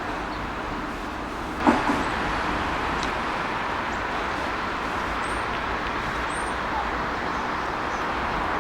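Steady rushing noise of a jet airliner's engines, growing slightly louder after a sharp click a little under two seconds in.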